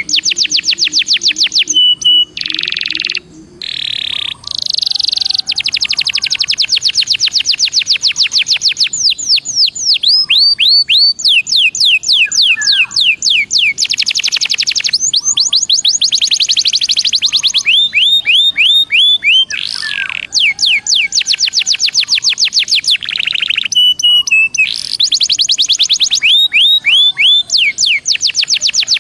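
Belgian canary singing a long, loud song of rapid trills and rolls. Fast series of repeated down-slurred chirps alternate with dense buzzing rolls and a few short held notes, with only brief pauses.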